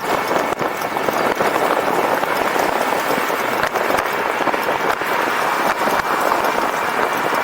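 Wind rushing over the camera microphone and tyre noise while riding an e-bike, with a faint steady high whine and a few small knocks.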